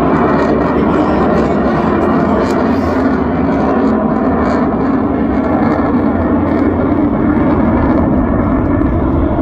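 Fighter jet's engines during a display pass: a loud, steady rush of jet noise.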